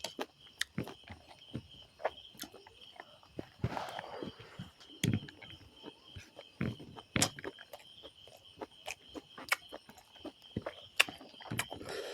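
Close-miked eating sounds: irregular wet smacks and crisp clicks of a mouth chewing food, over a steady high insect trill.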